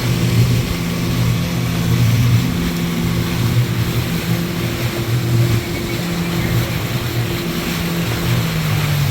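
Motorboat engine running steadily with an even hum, under the rush of water and wind.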